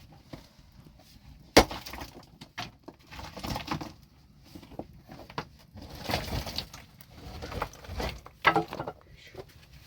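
A single loud, sharp knock of hard material about one and a half seconds in, followed by irregular knocking, clattering and scraping of hard objects.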